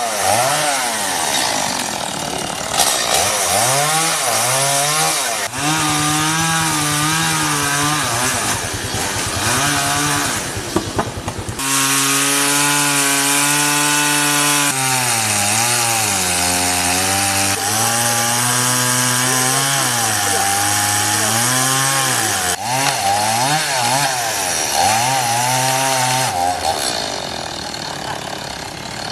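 Petrol chainsaw running loud and cutting through a fallen tree trunk, its engine pitch repeatedly rising and dipping as it revs and the chain bites into the wood.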